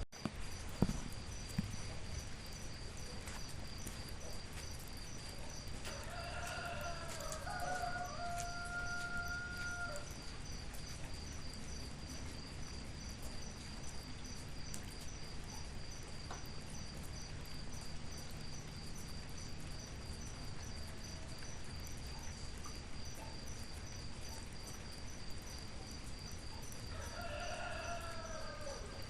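Steady rain with a rooster crowing twice, about six seconds in and again near the end, each crow rising, holding a long note and falling away. A steady high insect chirring runs underneath, and there is a sharp knock just after the start.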